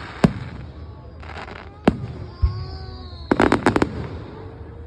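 Fireworks going off: sharp single bangs about a quarter second in and again near two seconds, a dull thump, then a quick crackling volley of cracks about three and a half seconds in.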